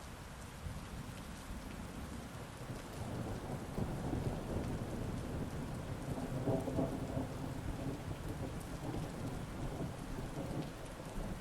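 Heavy rain with a long roll of thunder that builds from about a second in, is loudest around the middle, and eases off near the end.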